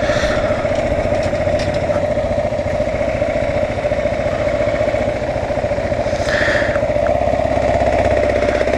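2009 Kawasaki KLR 650's single-cylinder engine running steadily.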